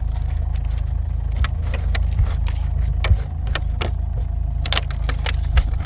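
Motor vehicle running with a steady low drone, overlaid by scattered short rattles and clicks.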